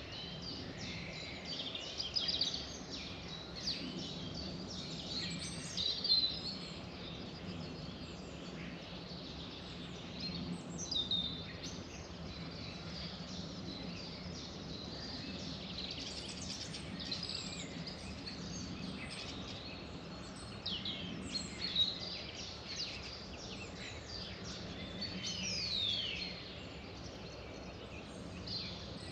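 A chorus of several songbirds singing and chirping at once, with quick trills and falling whistles, over a steady low background hum.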